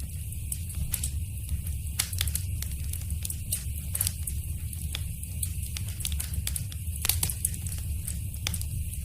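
Wood fire crackling in a fireplace: irregular sharp pops and snaps over a steady low rumble and hiss, with the loudest pop about seven seconds in.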